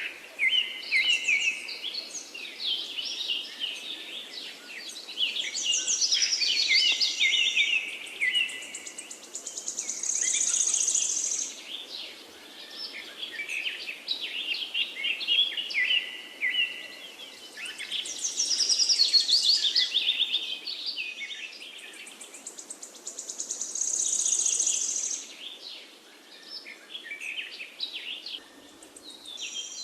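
Several songbirds singing, with overlapping rapid chirps and trills coming in phrases a few seconds long, separated by short lulls.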